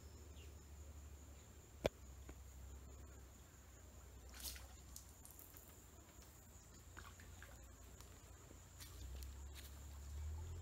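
Faint outdoor ambience: a steady high insect drone over a low rumble. A single sharp click comes a little under two seconds in, and a brief hiss comes about halfway through.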